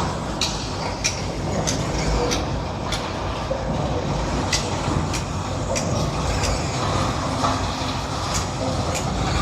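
Road roller's diesel engine running steadily as it works the road surface, with frequent irregular sharp clicks over the rumble.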